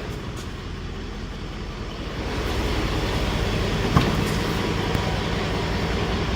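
Straight-piped Mercedes E420 CDI twin-turbo V8 diesel, DPF and mufflers deleted, running cold at idle less than a minute after its first start in five months, with a fast, even exhaust pulse. It gets louder about two seconds in, and there is one sharp click about four seconds in.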